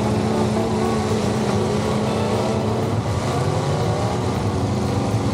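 Engines of several demolition derby cars running and revving at once: a steady, dense drone whose pitches rise and fall.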